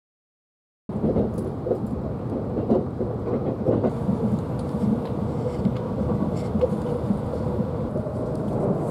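Limited express Odoriko train running, heard from inside the passenger car: a steady low rumble of wheels on rails with scattered clicks, starting abruptly about a second in.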